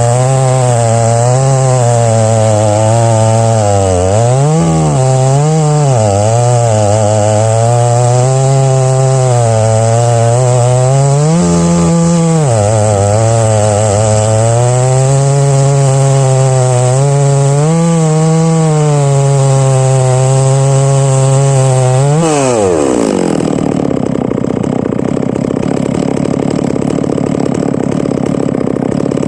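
Large two-stroke chainsaw at full throttle ripping oak on a chainsaw mill, its pitch sagging and recovering as it loads up in the cut. About three-quarters of the way through, the throttle is released and the engine winds down to a steady idle.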